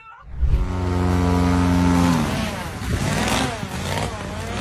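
A vehicle engine running steadily, then dropping in pitch about two seconds in and revving up and down several times.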